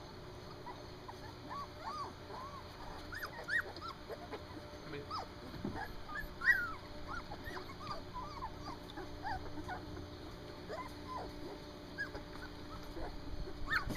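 A litter of three-week-old standard poodle puppies whimpering and squeaking: many short, high cries that rise and fall in pitch, sometimes overlapping, with one louder cry about halfway through.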